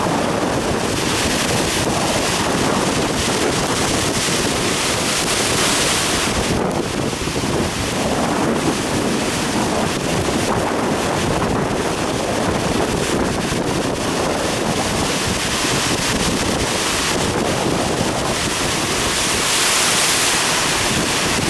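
Heavy typhoon swell surging and breaking in a harbour, a dense steady roar of water, with strong wind buffeting the microphone; the hiss swells louder a few seconds in and again near the end.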